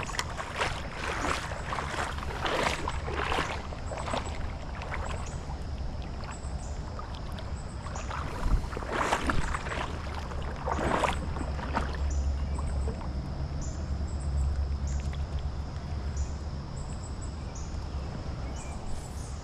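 Legs wading through creek water: irregular swishing splashes, most of them in the first few seconds and again about halfway through. A low rumble of wind on the microphone runs beneath.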